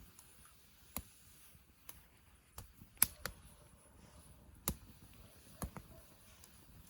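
Wood campfire crackling, with a handful of sharp, irregular pops from the burning wood, the loudest about three seconds in.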